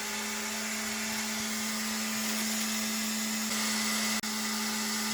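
Creality K2 Plus 3D printer's fans running at high speed: a steady rushing hiss over a low hum. The sound cuts out for an instant about four seconds in.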